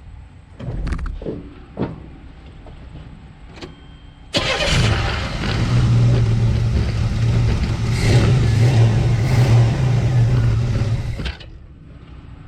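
A 1985 Chevy S-10's engine fires up about four seconds in on its first start after the distributor was reinstalled and its timing reset. It runs steadily for about seven seconds without the air cleaner fitted, then cuts off suddenly. A few knocks come before it.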